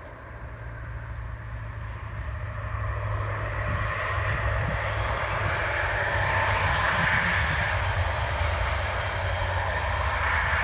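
Model diesel multiple unit's DCC sound decoder playing a Class 158 diesel engine sound through its small on-board speaker. There is a steady low hum throughout, and the engine note builds and grows louder over the first few seconds.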